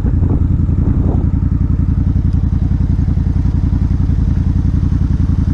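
Suzuki Intruder 1400's air-cooled V-twin running steadily, with an even, rapid run of firing pulses. It is running on a fuel pump wired straight to the power supply, after repeatedly cutting out.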